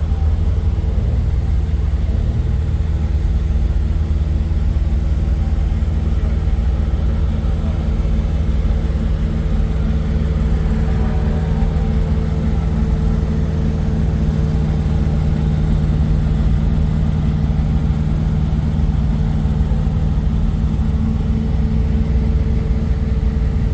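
Semi truck's diesel engine idling steadily with a low, even hum.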